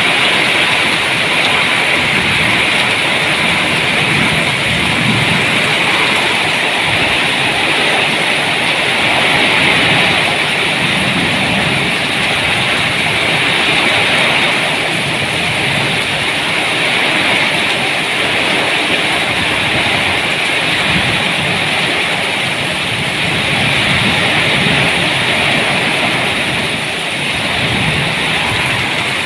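Heavy rain falling steadily, with a low rumble rising and falling underneath.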